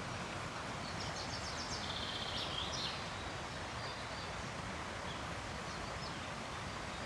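Steady rush of river rapids, with a small bird singing a quick run of high repeated notes about a second in.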